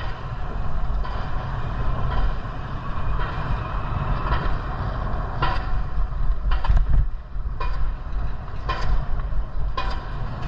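Wind rumbling on the microphone while riding a bike, with short sharp clicks about once a second in the second half.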